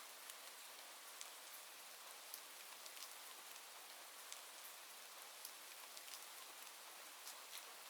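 Faint, steady rain hiss with scattered small ticks of drops, about two a second.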